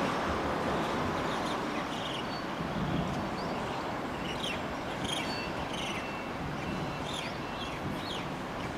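Crested myna calling: a scatter of short, sharp chirps with a few brief thin whistles, busiest in the second half, over steady background noise.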